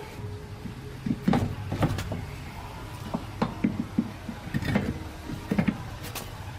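Irregular knocks and clicks, a dozen or so, over a steady low hum.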